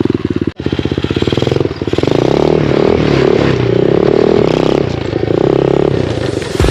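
Motorcycle engine running under way and revving, its pitch rising and falling as the throttle changes. The sound drops out briefly about half a second in.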